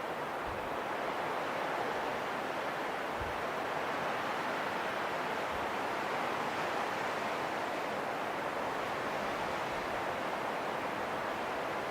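Wind blowing as a steady, even rush that swells slightly, with a few faint low thumps.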